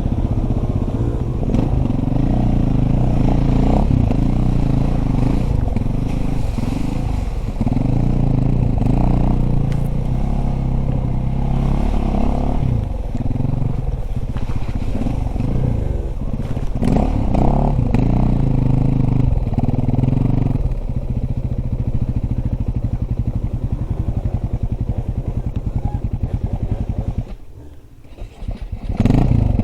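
Dirt bike engine running hard while being ridden, its pitch rising and falling over and over as the throttle opens and closes. The sound drops away briefly near the end, then comes straight back.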